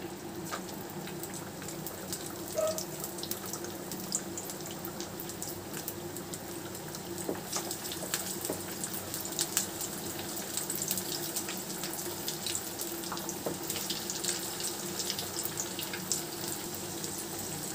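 Potato and poha cutlets frying in hot oil in a frying pan: a steady sizzling hiss with many small crackles and pops.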